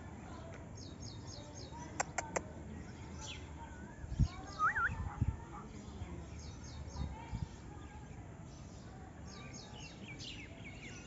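Small birds chirping over and over in short, high, falling notes, with one curling call about halfway through. Three sharp clicks come about two seconds in, and a few dull low thumps follow a little later.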